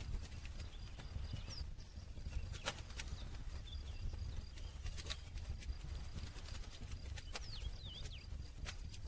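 Wood campfire crackling, with sharp pops every second or two over a low steady rumble. A faint high pulsing tone runs underneath, and a few short bird chirps come near the end.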